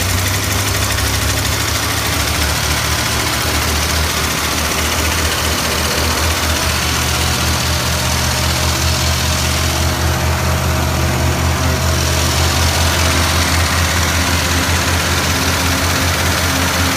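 Engine from an old Mallard Class A motorhome idling steadily with a low, even hum.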